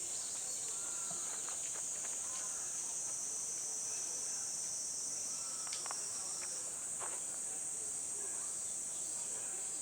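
A steady, high-pitched insect chorus that shifts slightly in pitch about two-thirds of the way through, with faint scattered knocks and distant sounds beneath it.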